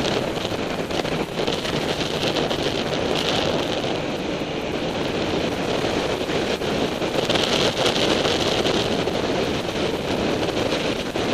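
Wind rushing over a sportbike's onboard camera microphone at road speed, mixed with the motorcycle's running and road noise: a steady rush with no breaks.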